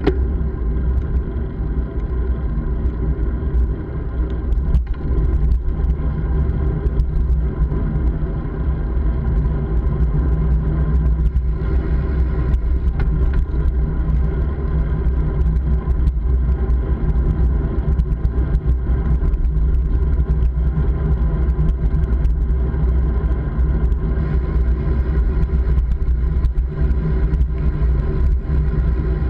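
A vehicle running at a steady speed: a heavy low rumble with a steady engine hum that holds one pitch throughout.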